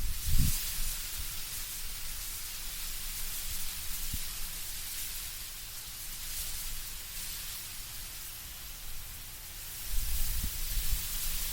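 Wind blowing through autumn trees, leaves rustling in a steady hiss. Low gusts of wind swell briefly about half a second in and again near the end.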